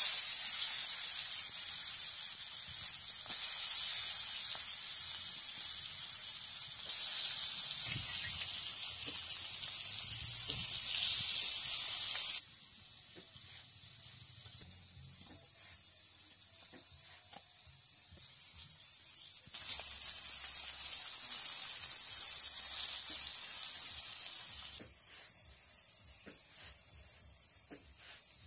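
Cut vegetable pieces frying in hot oil in a black iron wok (kadai), a loud sizzle that starts suddenly, with the clicks and scrapes of a steel spatula stirring them. The sizzle is loud for the first dozen seconds, drops sharply, comes back loud for a few seconds in the second half, then drops again.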